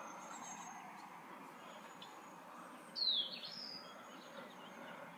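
Quiet outdoor background with a single bird call about three seconds in: one short, high chirp that slides down and then back up in pitch.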